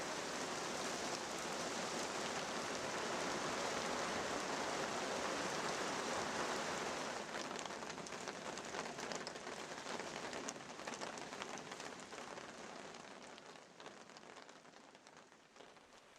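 Heavy rain falling, steady at first; about halfway through it thins into scattered single drops and fades away.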